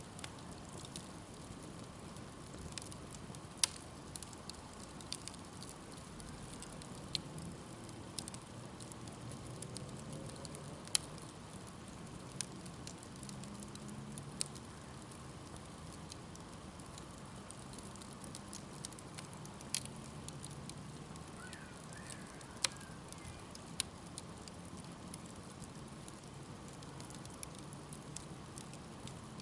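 Wood campfire burning with a steady hiss and scattered sharp crackles and pops, several of them louder than the rest.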